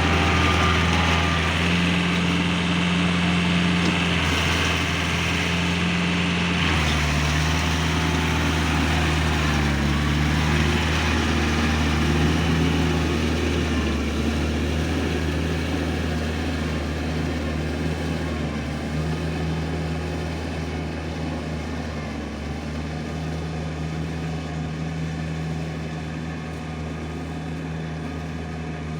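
Iseki four-wheel tractor's diesel engine running steadily under way, its pitch shifting slightly now and then, slowly getting quieter over the second half.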